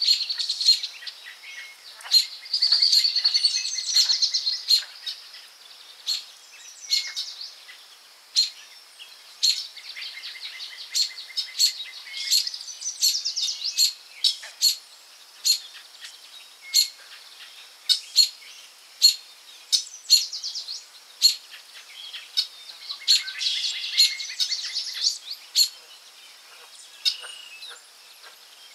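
Forest birdsong: several birds singing, with many short, sharp chirps all through and a few fast trilled phrases.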